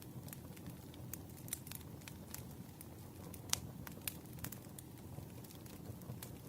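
Campfire crackling: irregular pops and snaps over a low steady rumble, with one sharper pop about halfway through.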